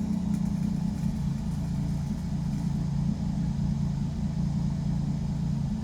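Pontiac Fiero engine running with a steady, uneven hum, the misfire the owner is trying to trace.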